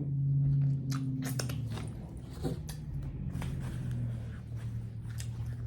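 Close-miked chewing and wet mouth smacks from eating salmon and asparagus, with a low steady hum underneath.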